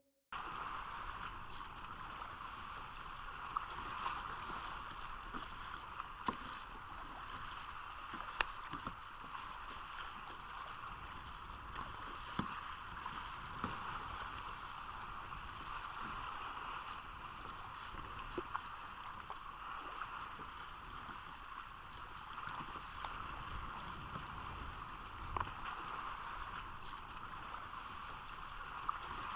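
Steady rushing of water and wind around a sea kayak, with scattered light knocks every few seconds.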